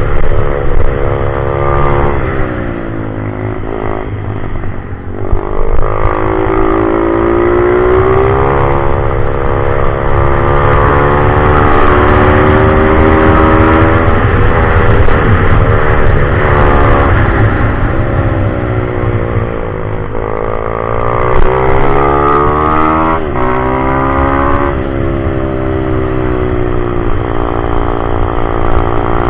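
Pit bike's small single-cylinder four-stroke engine running hard, its pitch climbing and dropping again and again as the throttle is opened and closed.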